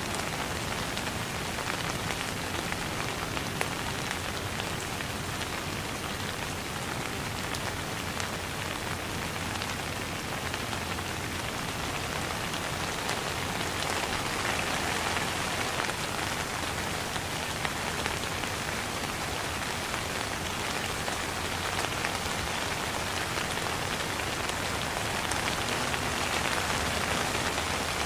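Steady rain: a dense, even hiss of countless drops striking a wet surface, with fine individual patters.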